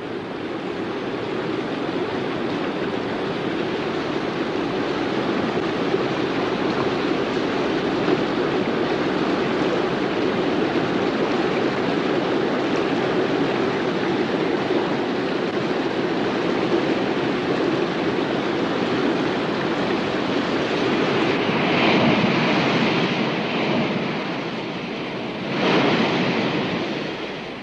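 Steady rush of moving water, swelling louder twice near the end, as of waves breaking.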